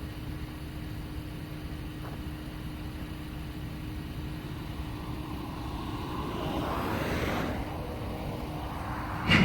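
Steady low engine rumble with a constant hum, while a passing road vehicle's noise swells to a peak about seven seconds in and fades away. A sudden loud sound begins right at the end.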